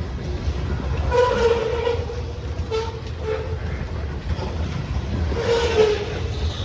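Norfolk Southern freight train rolling past with a steady low rumble. Two short pitched tones stand out, about a second in and again near the end.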